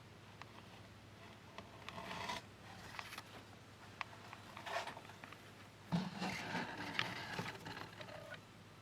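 Handling noise: rubbing and scraping with scattered light clicks, loudest about six seconds in.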